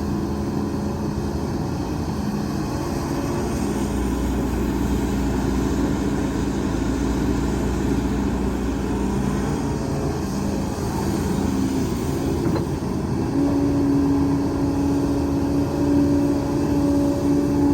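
Heavy diesel earthmoving machinery running, its engine notes shifting in pitch and load as it works. A single sharp knock comes about two-thirds of the way through.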